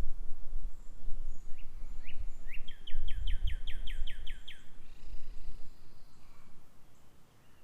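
A songbird sings a run of about a dozen quick notes, each sliding down in pitch, that lasts about three seconds. A low rumble runs under it and is the loudest part of the sound.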